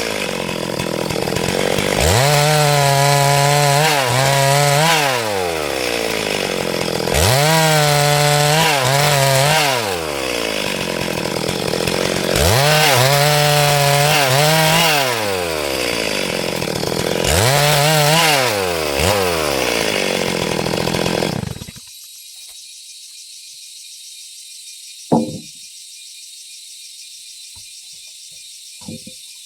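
Stihl MS382 two-stroke chainsaw ripping planks from a log, revving up to full speed, holding, then dropping back, over and over about every five seconds. It cuts off abruptly about 21 seconds in, leaving a faint hiss and a couple of short knocks.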